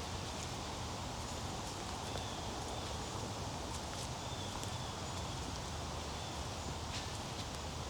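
Footsteps along a wet, overgrown woodland trail, with leaves rustling and scattered light clicks, over a steady outdoor background with a few faint, short high chirps.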